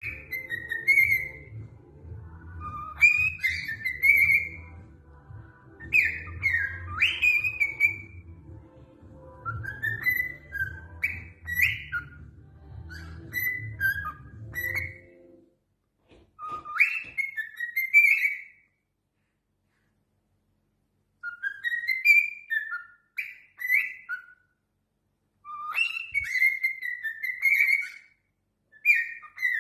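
A parrot whistling short phrases of rising and falling notes, again and again. A low hum sits under the first half and stops abruptly about halfway, after which the whistles come with short silent gaps between phrases.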